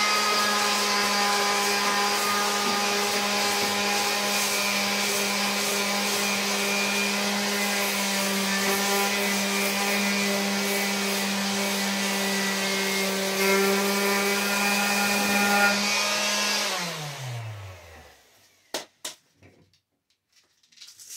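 Electric sander running steadily as it sands rust off the stove's metal, then switched off: its motor whine falls in pitch and stops about seventeen seconds in. A few sharp clicks follow.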